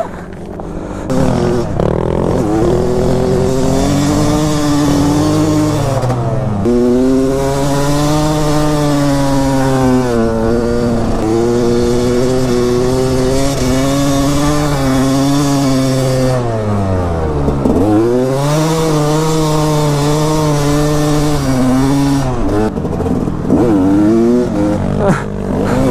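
Dirt bike engine being ridden hard, its pitch rising and falling with the throttle. About two-thirds of the way through the throttle is shut and the pitch drops deeply, then it revs back up.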